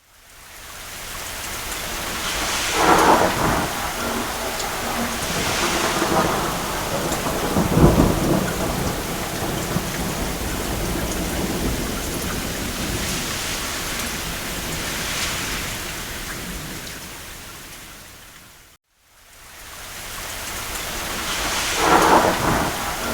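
Steady heavy rain on a cabin roof with rolling thunder: several rumbles swell up over the rain, the deepest about 8 seconds in and another near the end. The sound briefly fades out to silence and back in about 19 seconds in.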